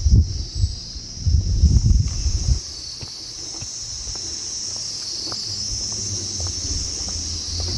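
A steady, high-pitched chorus of insects shrilling in the forest. For the first two and a half seconds a heavy low rumble covers it, which then drops away, leaving the chorus with scattered light ticks.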